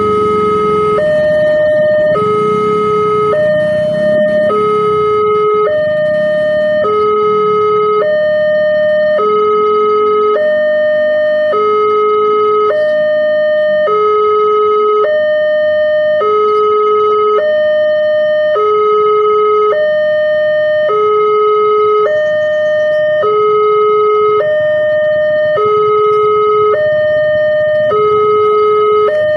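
Railway level-crossing warning alarm: a loud electronic two-tone signal alternating steadily between a low and a higher note, about one pair every 1.2 seconds, warning that a train is approaching and the barrier is closing. A faint engine rumble sits under it in the first few seconds.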